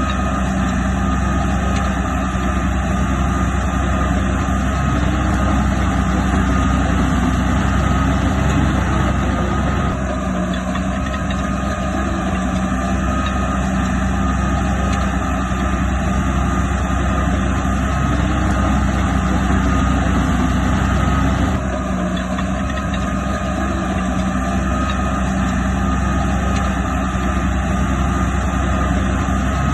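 Heavy diesel earthmoving machinery running steadily, with its engine sound dipping briefly about ten seconds in and again a little past the twenty-second mark.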